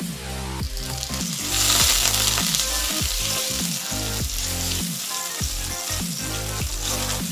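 Chicken breast frying in hot oil in an enamelled cast-iron skillet. The sizzle rises sharply about a second and a half in as the piece goes into the oil, then carries on while a wooden spoon stirs it. Background music plays underneath.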